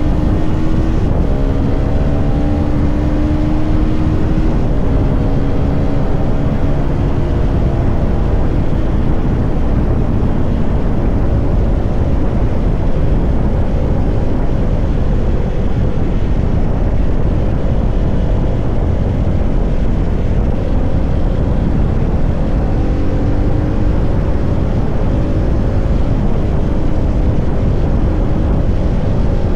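CFMoto 300SR motorcycle's single-cylinder engine running under way, its note rising and falling a little, mixed with a dense, steady low rushing noise.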